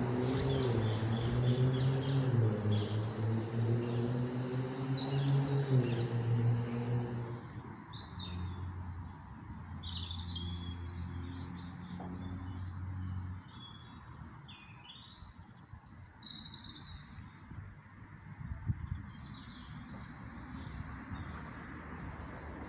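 Small birds chirping in short, high calls throughout. Underneath, a low droning hum wavers in pitch over the first third, settles into a lower steady hum, and fades out about halfway.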